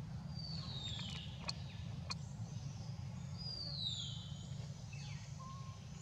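A bird calls twice, about three seconds apart, each call a descending whistle lasting under a second. A few short sharp clicks fall between the calls, over a steady low hum.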